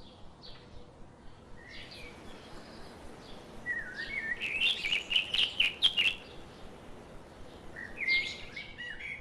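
Small birds chirping: scattered short calls, with a quick run of sharp notes in the middle and a few more near the end.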